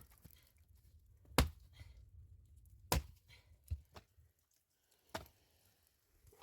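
Four sharp knocks at irregular intervals, the loudest two about a second and a half apart.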